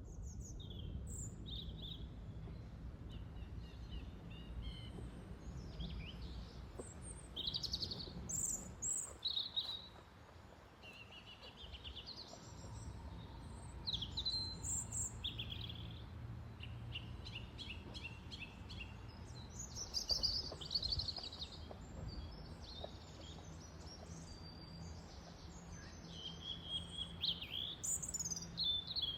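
Several songbirds chirping and trilling, call after call, over a low steady rumble.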